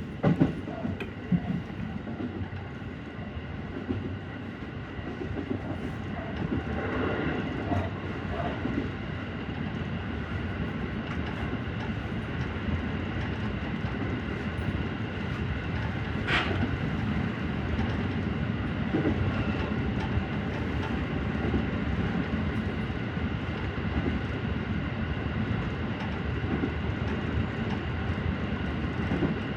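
JR Central 313 series electric train running along the line, a steady rumble of wheels and motors with faint steady tones, growing louder over the first several seconds. A few wheel clicks come near the start, and a single sharp click comes about sixteen seconds in.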